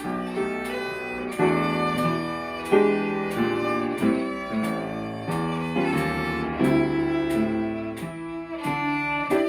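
Violin playing a melody line note by note over a swing-style backing of guitar chords.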